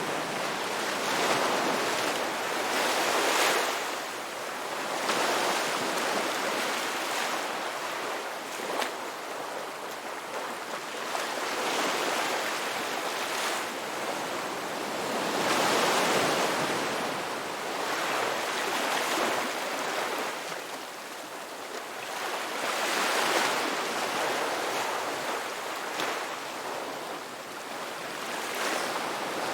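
Ocean surf washing onto a beach: a steady rush that swells and eases every few seconds as waves break.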